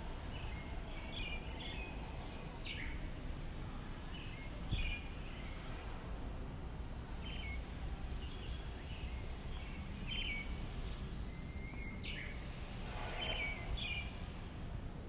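Small birds chirping: short, scattered high calls repeated throughout, over a steady low background rumble.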